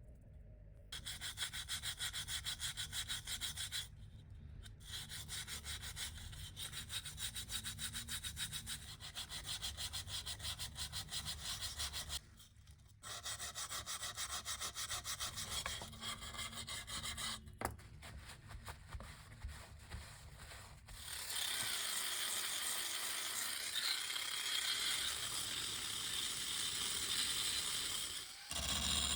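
Hand abrasive work on the grinder's parts: rapid back-and-forth rubbing strokes, stopping briefly a few times. After about 21 seconds it becomes a smoother, more continuous rub.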